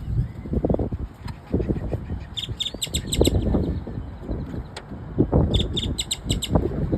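A bird chirping in two quick series of short, sharp notes, the first a little over two seconds in and the second about three seconds later, over low rumbling and thumps.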